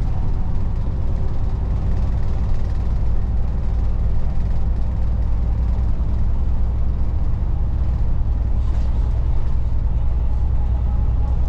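Volvo 8900 bus's diesel engine and drivetrain running under way, heard inside the cabin as a steady low drone.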